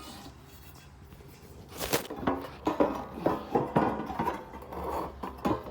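Knocks and clatter of a bird feeder being handled: a sharp knock about two seconds in, then a run of lighter knocks and rattles.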